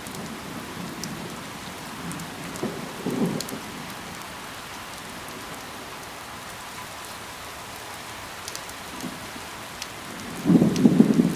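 Steady rain falling on foliage, an even hiss with scattered sharp drop ticks. A short low rumble comes about three seconds in, and a louder one near the end.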